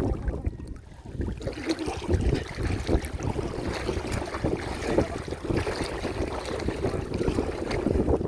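Muddy water splashing and sloshing in irregular bursts, with wind buffeting the microphone.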